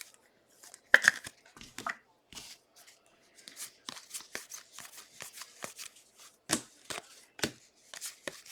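Trading cards being handled: flicked through, slid against one another and set down, making a run of irregular light taps, clicks and short rustles.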